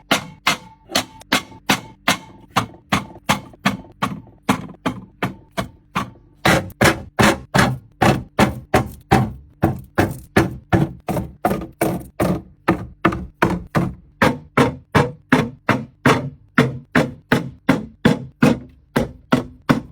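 Steady run of sharp knocks, about three a second, growing louder about six and a half seconds in.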